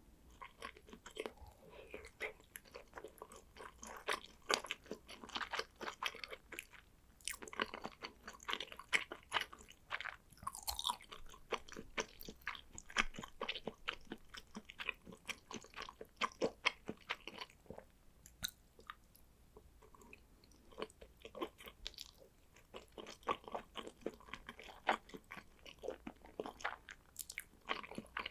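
Close-miked chewing of salmon sushi: runs of wet, clicking mouth sounds with short lulls between bites.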